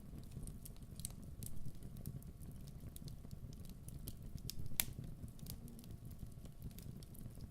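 Wood fire burning: irregular sharp crackles and pops over a low steady rumble, with the loudest pop about five seconds in.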